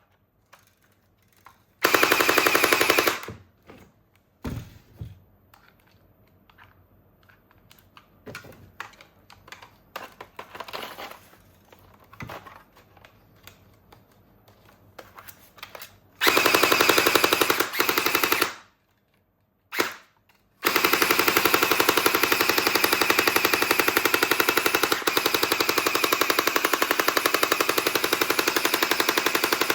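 Toy gun's electronic machine-gun sound effect: a short burst about two seconds in, another around sixteen seconds, then continuous rapid fire for the last nine seconds. Between the bursts, faint clicks of the toy being handled.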